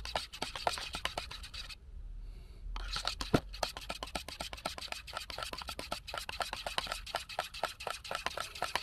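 A tin of paint being stirred vigorously, the stirrer scraping and knocking against the inside of the metal tin in quick strokes, with a short pause about two seconds in.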